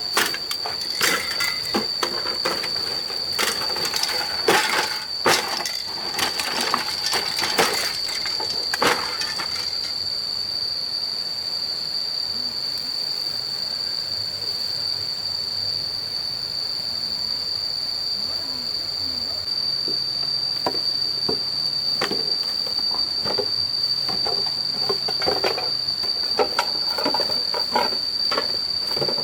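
A steady high-pitched whine throughout, with bursts of knocking and clattering in the first third and again near the end.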